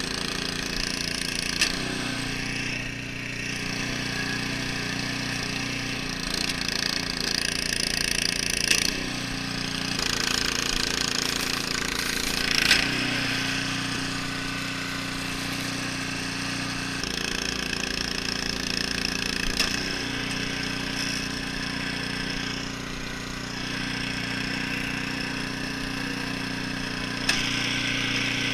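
An engine running steadily, its pitch shifting a little every few seconds, with a rushing hiss over it and a few brief louder surges.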